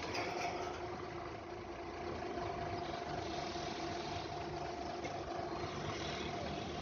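Steady mechanical hum of a running machine, a constant pitched drone with an even low rumble beneath it.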